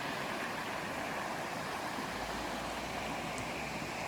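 River water rushing steadily, a constant even hiss.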